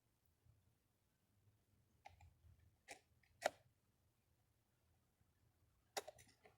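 Small metal parts of an old Delco Remy distributor clicking as a part is fitted back in by hand. There are a few sharp clicks, the loudest about three and a half seconds in, then a quick cluster near the end.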